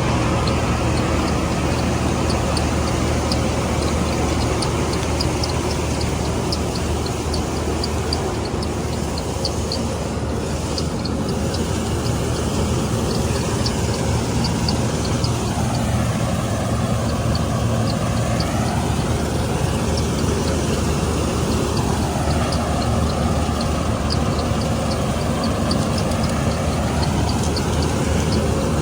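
Combine harvester's diesel engine and threshing machinery running steadily under load, with a fast regular ticking clatter from the mechanism over the engine's hum. The tone sweeps slowly as the machine moves.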